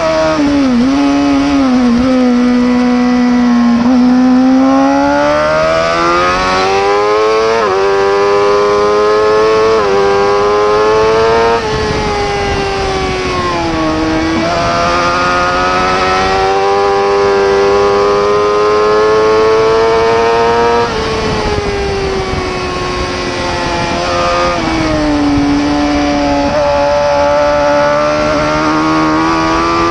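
Racing superbike engine at full race pace. The revs climb with quick upshifts about 8, 10 and 12 seconds in, then fall away and build again several times as the bike brakes and accelerates through corners.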